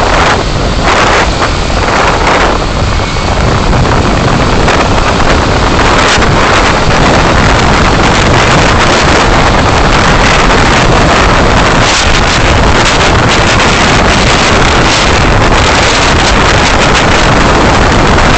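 Loud, steady rush of road and wind noise from a moving car, picked up by a dashcam's microphone.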